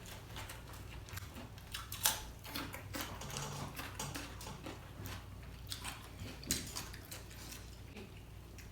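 Quiet eating sounds: chewing with scattered light clicks and taps of utensils against dishes, the sharpest clicks about two seconds in and again past six seconds.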